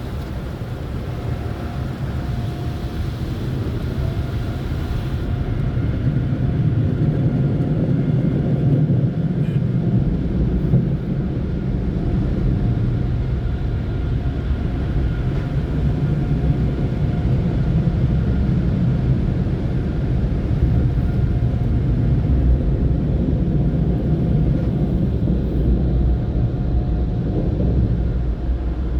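Automatic drive-through car wash equipment heard from inside the car: a steady, loud rumble. A high hiss stops about five seconds in, and a deeper low rumble joins about ten seconds in.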